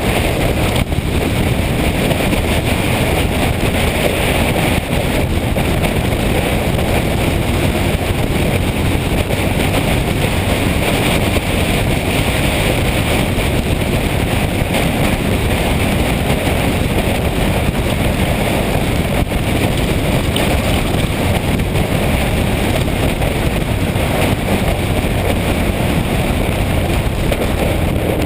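Motorcycle riding at a steady speed, heard as a loud, even rush of wind over the microphone mixed with engine and road noise.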